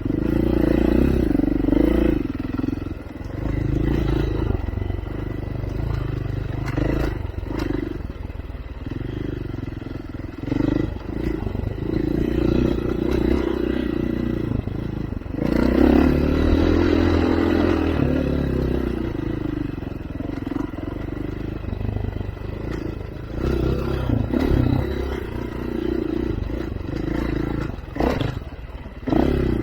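Off-road vehicle engine running at varying throttle, surging up and easing off every few seconds, with rattles and knocks from the vehicle working over rough ground.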